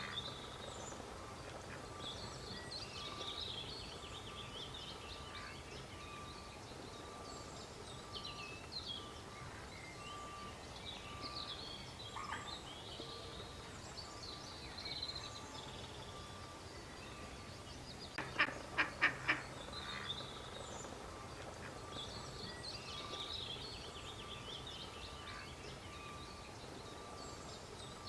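Duck quacking: a quick run of about five loud quacks a little past halfway, over small birds chirping in the background.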